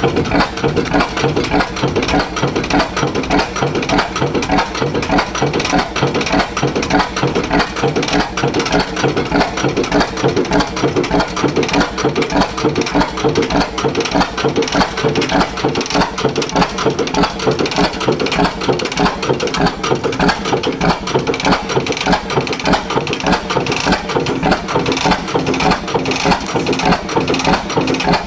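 Reid 30 hp oil engine running steadily, its exhaust beating in an even, regular rhythm.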